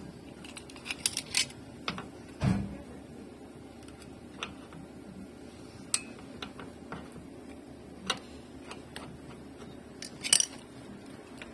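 Metal parts and hand tools being handled, with scattered sharp clinks and clicks and one dull thump about two and a half seconds in.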